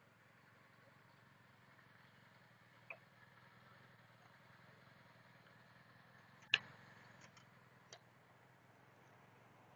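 Near silence: a faint steady hum with a few short sharp clicks, the loudest a little past halfway.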